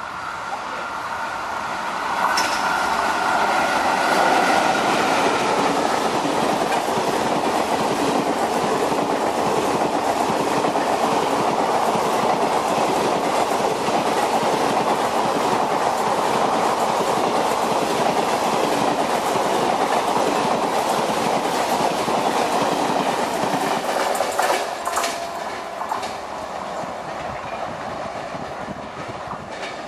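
Indian Railways electric passenger train, an electric locomotive hauling ICF coaches, passing close at speed. It builds quickly as the locomotive arrives about two seconds in, with a high whine sliding down in pitch. The coaches then give a loud, steady rolling clatter of wheels on rail, which eases off about 25 seconds in as the last coach goes by.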